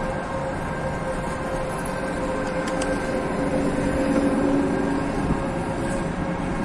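A departing passenger train hauled by an EP2K electric locomotive, moving at low speed. It makes a steady hum with a few level, higher-pitched tones, swelling briefly around four seconds in.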